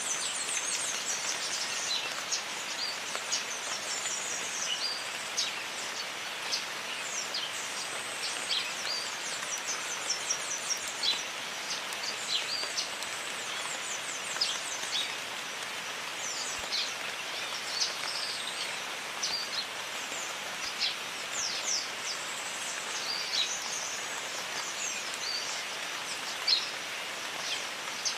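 Steady rain with many short, high bird calls and chirps over it, in a jungle soundscape.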